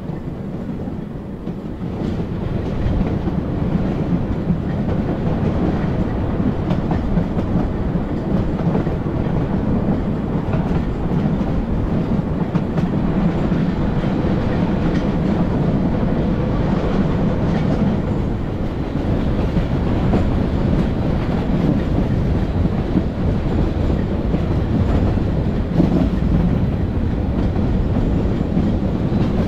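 Narrow gauge train rolling along the track, heard from an open car: a steady running noise of wheels and cars, getting a little louder about two seconds in.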